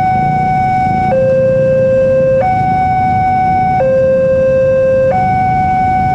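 Railway level-crossing warning alarm sounding a steady two-tone high-low signal, one pitch about every second and a quarter, which warns that a train is approaching. A low rumble runs underneath.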